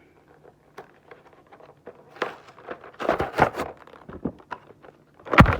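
A toy's cardboard box and plastic packaging being handled and opened by hand: scattered rustling and small clicks that thicken about two seconds in, then one sharp, loud crackle near the end.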